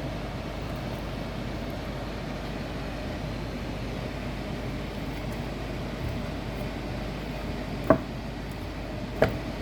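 Air fryer fan running with a steady hum. Two short sharp knocks come near the end.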